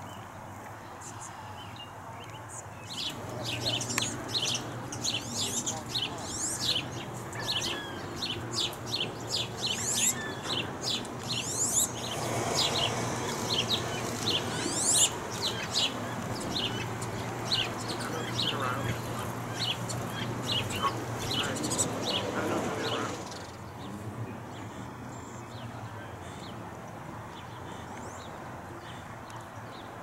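Small birds chirping in a rapid run of short, high, falling calls starting about three seconds in. A lower, busier layer of sound joins about halfway, and both stop abruptly near the end, leaving a steady low background hum.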